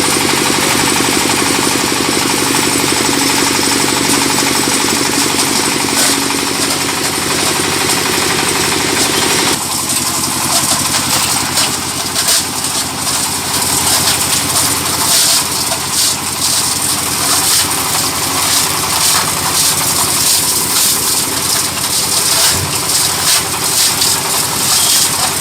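Small diesel engine running steadily, coupled to a plastic shredder. About ten seconds in the sound turns rougher and uneven, with crackling and clattering on top, as the shredder takes load.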